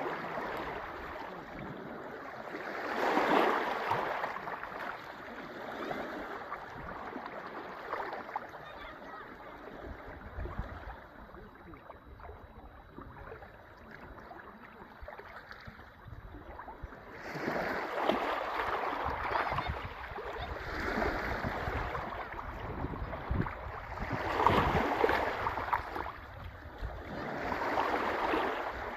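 Sea waves breaking and washing on the shore, rising in surges of surf every few seconds with a quieter lull through the middle.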